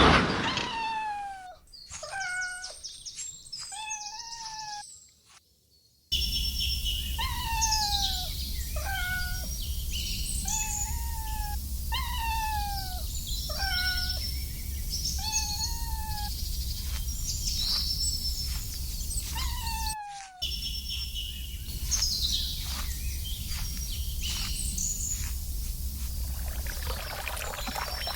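A kitten meowing over and over, each meow a short cry that falls in pitch, with high chirps above and a steady low background rumble. The meows come thick and fast, then grow sparser in the last several seconds.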